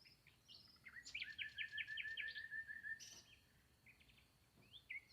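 Birds chirping faintly: a quick series of short repeated notes for about two seconds, then a few scattered chirps near the end.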